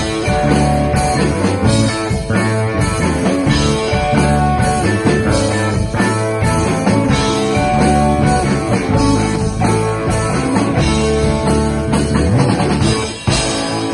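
Live rock band playing an instrumental passage on electric guitar, bass and drum kit. Near the end the band drops out for a moment and comes back in on a hard accent.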